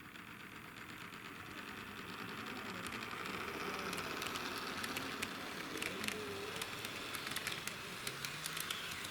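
HO gauge model diesel railcar running on sectional track, growing louder as it approaches. From about three seconds in, its wheels click rapidly and irregularly over the rail joints.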